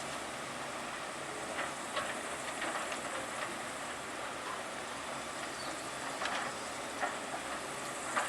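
Heavy construction machinery at work: a steady mechanical noise with scattered sharp knocks and clanks.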